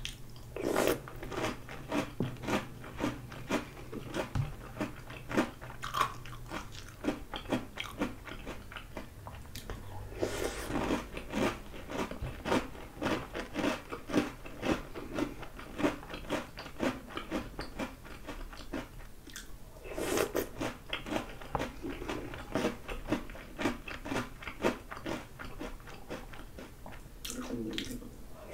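Close-up chewing and crunching of Oreo O's chocolate cereal in milk: rapid, crisp crunches, with the chewing dying down briefly and starting louder again as fresh spoonfuls go in.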